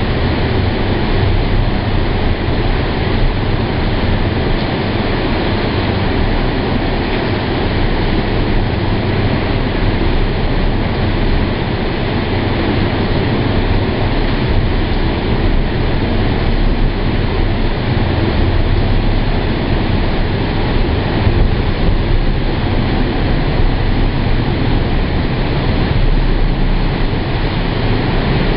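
Strong hurricane wind of about 30–40 mph blowing against the microphone: a steady, loud low rumble with no letup.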